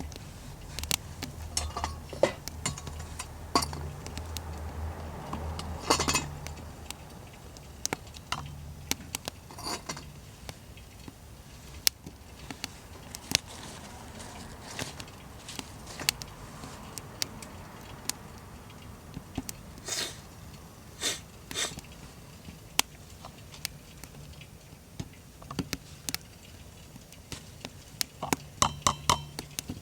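Light, scattered clinks and knocks of metal camp cookware and utensils being handled, with a low hum in the background near the start and again near the end.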